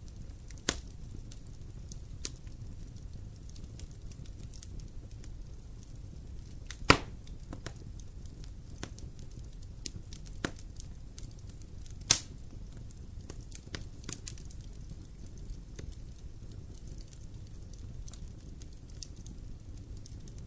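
Wood fire in a fireplace crackling over a steady low rumble, with scattered sharp pops; the loudest pop comes about seven seconds in and another strong one about twelve seconds in.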